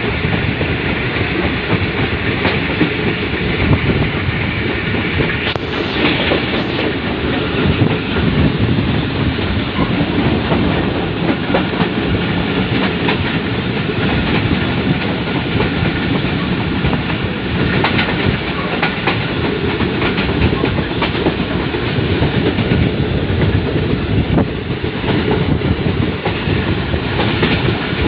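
Passenger train running along the track, heard from aboard: a steady rumble with the clickety-clack of wheels over rail joints.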